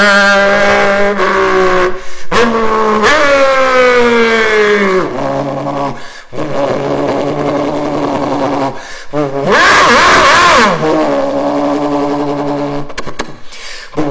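Mazda 787B's four-rotor rotary engine running at high revs in passes cut one after another, its note sliding down in pitch several times as the car goes by or changes gear. About ten seconds in comes a louder, rougher burst.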